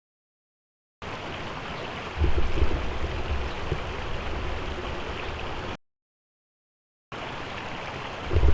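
Small river's water running steadily, with irregular low rumbles underneath. The sound starts about a second in, cuts off to silence for about a second in the middle, then resumes.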